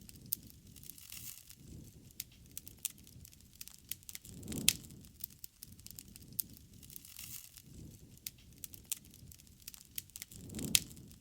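Wood fire crackling, with irregular sharp pops and snaps of burning wood. Two louder pops come with a low rush, about four and a half seconds in and again near the end.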